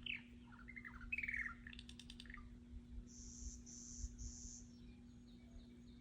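Small birds calling: a quick run of sliding chirps for the first couple of seconds, then three buzzy high notes in a row, with fainter calls after. A faint steady hum runs underneath.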